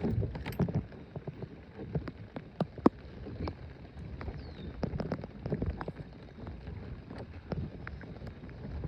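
Irregular clicks and knocks from people moving and handling gear in a small plastic boat, over wind noise on the microphone; the sharpest knock comes about three seconds in.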